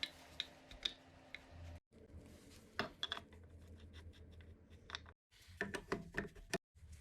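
Workbench handling sounds: small metal engine parts and hand tools clicking and clinking in quick irregular taps over a low hum. The sound is chopped into short pieces, cutting to silence several times.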